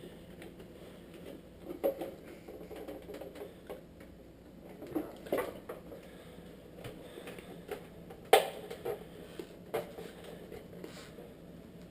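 Plastic headlight lens being pried off its housing, the sealant softened by oven heat: scattered irregular clicks and knocks, the loudest a sharp snap about eight seconds in.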